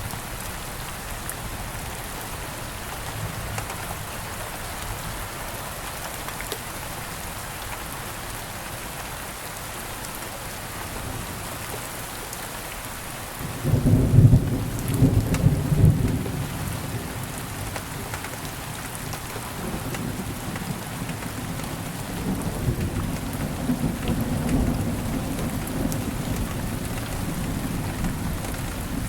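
Steady rain falling. About halfway through, a loud clap of thunder breaks in and rumbles for a few seconds, then carries on as a lower rolling rumble under the rain.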